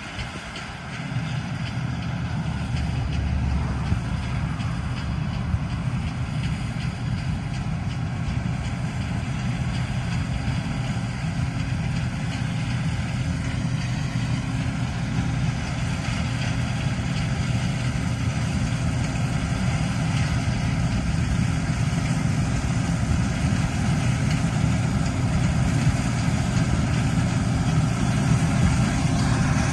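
Heavy farm vehicle's engine running steadily under way, a deep even drone that settles in about a second in.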